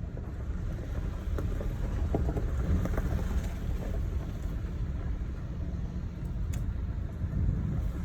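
Car interior road noise while driving on a snow-packed road: a steady low rumble of engine and tyres.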